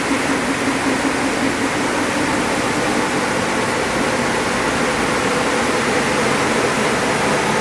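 Timesavers 200 series three-head 52-inch wide belt sander running with all three heads on, a 50 hp helical-grooved drum head and two 30 hp oscillating platen heads. It makes a steady, loud rushing noise with a faint hum.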